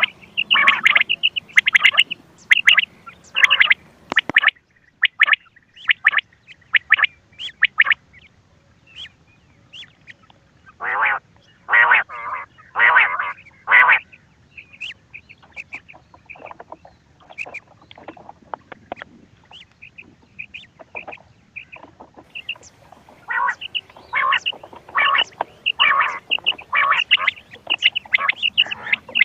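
Recorded quail calls played as a hunting lure: rapid runs of short, sharp notes, with a few longer, louder calls about eleven to fourteen seconds in.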